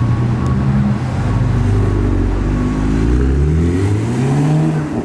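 A car engine running at low revs, then its pitch rising smoothly over the last two seconds or so as the revs climb.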